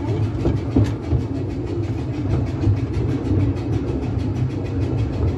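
Steady running rumble of a small garden steam railway train, heard from on board a moving carriage as it rolls along the track.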